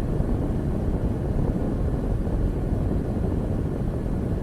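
Steady low rumble of a moving car, road and engine noise as heard inside the cabin.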